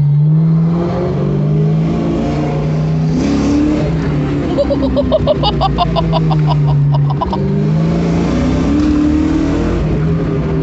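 Loud aftermarket-exhaust Ford Mustang engine pulling through the gears: its pitch climbs and drops back several times as it accelerates and shifts. About halfway through, a rapid pulsing tone sounds for a few seconds over it.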